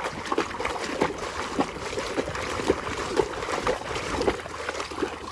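Water sloshing and trickling as a muddy toy motorbike is rubbed clean by hand, with small knocks and splashes throughout.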